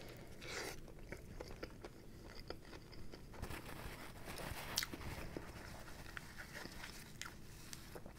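Faint biting into and chewing of a fried chicken sandwich, with scattered small clicks and crunches of the mouth and food.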